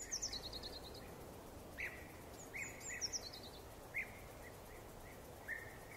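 Birds calling over a steady background noise: a quick run of falling high notes at the start, another in the middle, and scattered short chirps between.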